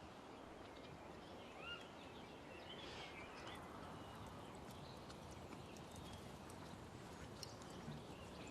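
Faint outdoor ambience: a low, steady hiss with a few short bird chirps and some scattered soft clicks.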